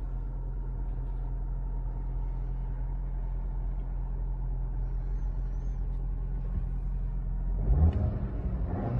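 Car engine idling with a steady low rumble, then revved near the end, its pitch rising and its level jumping.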